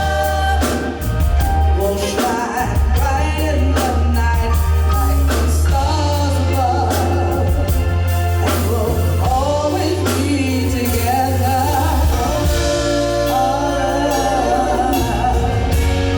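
Live band music: a sung vocal line over bass and drums, with sharp drum strokes throughout.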